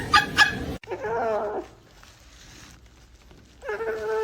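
A dog whining twice: two drawn-out pitched calls, one about a second in and another near the end, the second falling away at its close.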